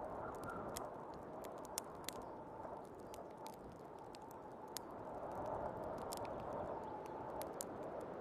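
Wood fire crackling with frequent irregular sharp pops, over the steady rush of snowstorm wind that whistles faintly and swells about two-thirds of the way through.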